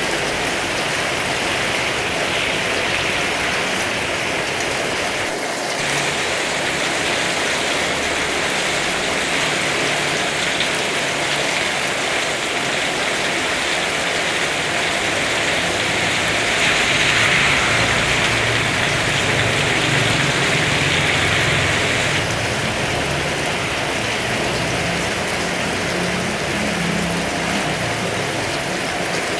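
Heavy rain pouring down steadily. It swells louder for several seconds a little past the middle.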